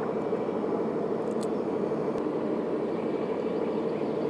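Steady machine-like hum over a constant noise background, with a couple of faint high ticks about a second and a half in.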